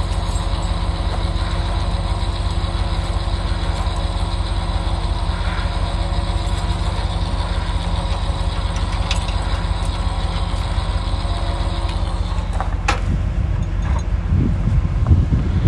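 Ram 2500 pickup's Hemi V8 idling steadily. Near the end there is a click, then uneven handling or rustling noise.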